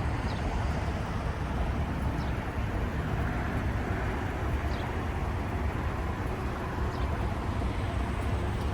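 Steady low rumble of a motor vehicle, with a few faint short high chirps now and then.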